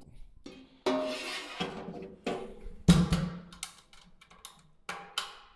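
Metal knocks and clanks from the wood stove's ash pan being handled, five or so sharp hits with brief ringing, the loudest about three seconds in.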